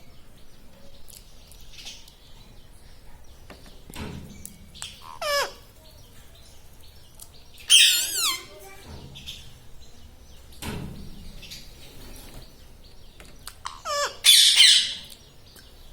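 Pet ring-necked parakeet giving several separate shrill calls with falling pitch, the loudest about halfway through and near the end.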